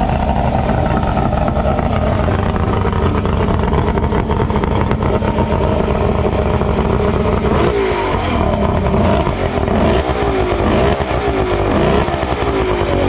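Two-stroke outboard motor running steadily, then revved up and down several times from about eight seconds in.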